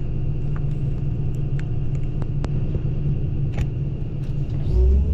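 Case CX220E excavator's diesel engine running steadily, with a few sharp knocks and cracks scattered through. Near the end the sound steps up louder and a rising tone joins in.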